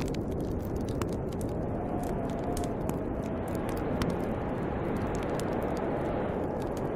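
Snowstorm wind blowing steadily with a faint wavering whistle, over a fire crackling with scattered sharp pops.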